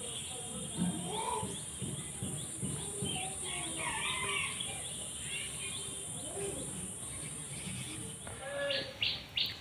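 Outdoor garden ambience of birds chirping and calling, with a steady high-pitched drone that stops near the end and a quick run of louder chirps in the last second or so.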